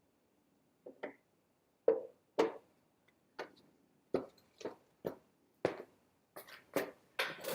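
Footsteps crunching in snow: a string of short, uneven crunches about two a second.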